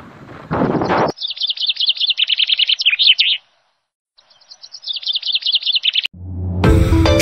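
A bird chirping in two rapid runs of quick, high notes, each cut off abruptly. Wind buffets the microphone in the first second, and music begins near the end.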